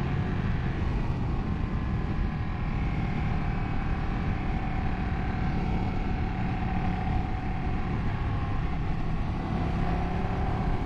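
Ducati 959 Panigale's Superquadro L-twin engine running at a steady road speed under heavy wind rush on the microphone, its pitch rising near the end as the bike accelerates.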